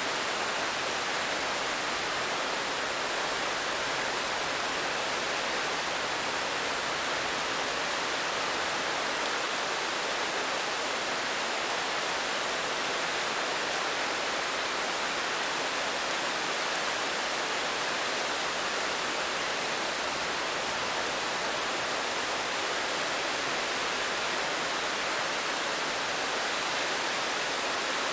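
Steady rain falling, an even hiss that does not change and holds no thunder.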